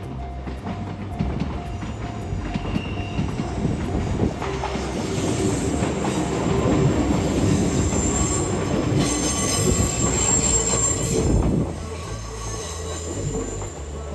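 Kintetsu electric train running through a tight curve at a level crossing, its wheels squealing against the rails as it passes. It swells to its loudest through the middle and drops off sharply near the end.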